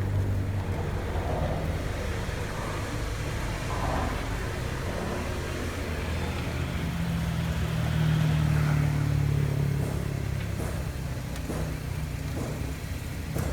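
Nissan Teana's 2.0-litre MR20 four-cylinder engine running steadily, its pitch rising a little midway and settling back.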